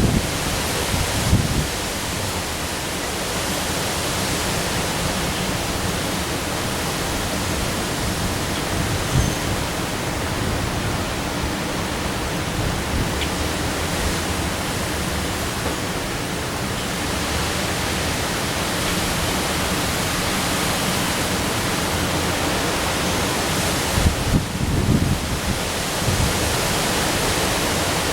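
Steady hiss of heavy rain and strong wind, with gusts buffeting the microphone about a second in and again near the end.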